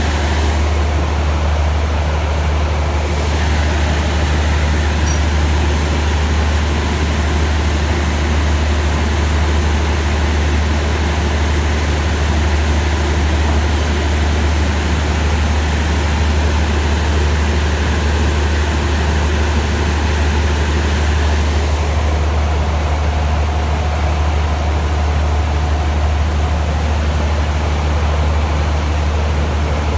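Passenger train standing at a station platform with its diesel engine running: a steady low drone under an even hiss.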